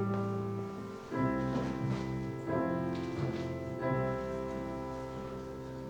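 Instrumental music between sung verses: sustained piano chords, with a new chord struck about every second and a half.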